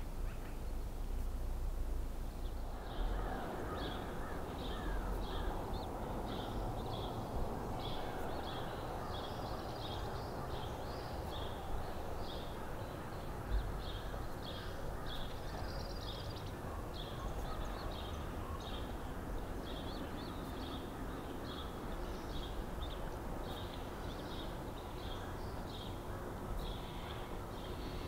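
Birds calling: a long run of short, high call notes, roughly two a second, starting about three seconds in, over a steady low rumble.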